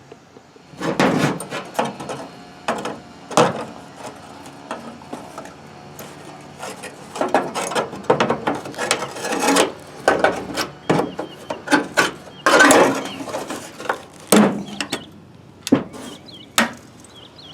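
Leftover strips of a 1963 Chevy truck's steel roof skin being pried and torn off the roof frame by hand: irregular scrapes and metal clanks, some ringing briefly, with the loudest stretch about two-thirds of the way in.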